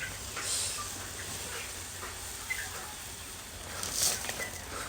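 Birds chirping with short, scattered calls, and two brief rustling bursts, one about half a second in and a louder one near four seconds, as of feed being scattered.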